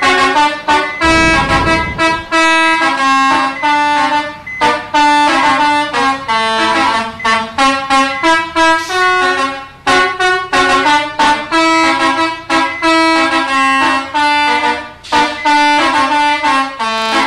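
Bus 'telolet' multi-tone air horn, a Basuri horn set, playing a fast melody: short blaring horn notes in quick succession, several pitches sounding together, with a brief low rumble about a second in.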